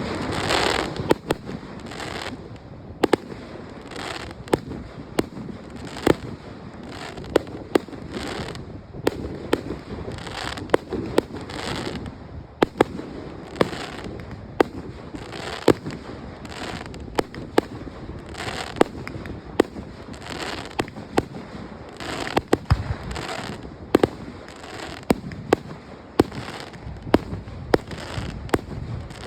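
Aerial fireworks display: shells bursting one after another, with sharp bangs roughly every second or so over a steady noisy hiss.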